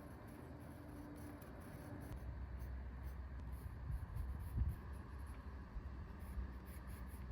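Faint scratching and small handling sounds over a low hum, with a soft knock about four and a half seconds in.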